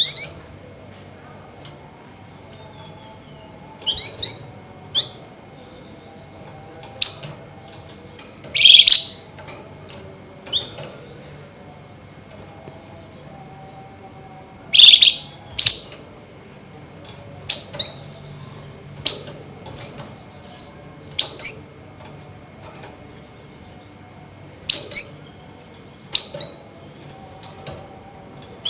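A flamboyan songbird giving short, sharp, loud chirps, about a dozen spaced irregularly a second or two apart, over a faint steady hum.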